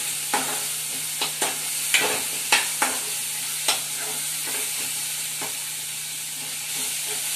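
Onion-tomato masala sizzling in oil in a metal kadhai while a spatula stirs it, scraping and knocking against the pan. The masala has been fried until the oil separates. The knocks come often in the first four seconds, then thin out.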